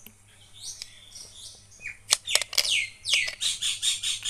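Songbirds chirping: high calls, a quick falling call, then a rapid run of repeated notes at about seven a second, the loudest part. About two seconds in come two sharp clinks of ice cubes dropped into glasses.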